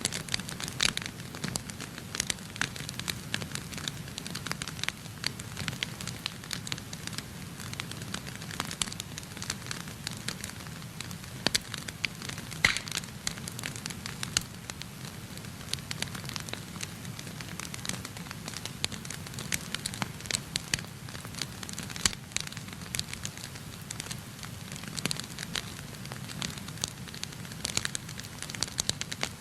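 Wood fire burning in a fireplace, crackling and popping at irregular moments over a steady low rush of the flames.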